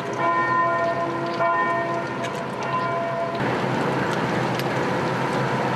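Church bells ringing, three strikes about a second apart, each fading away. About halfway through, the sound cuts abruptly to a steady noisy background with a low hum.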